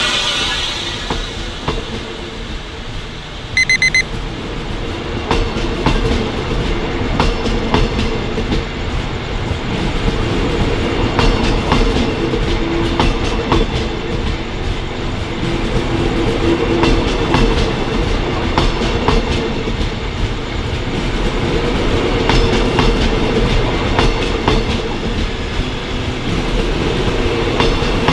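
Passenger coaches rolling slowly past, their wheels clicking over rail joints above a steady rumble. A brief high-pitched tone sounds about four seconds in.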